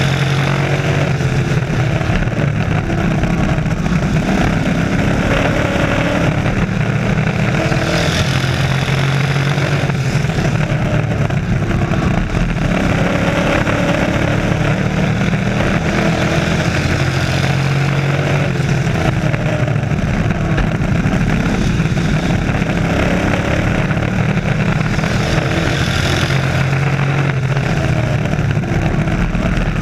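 Several race trucks' engines running at speed on an oval track, their pitches rising and falling as they accelerate and pass.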